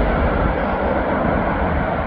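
Airbus A380-861 airliner landing, its four Engine Alliance GP7200 turbofans giving a steady jet noise with heavy low rumble. The hiss at the top is fading, as when the aircraft draws away.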